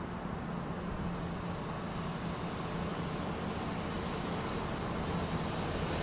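Car engine running steadily: a low rumble with a faint hum, growing slightly louder near the end.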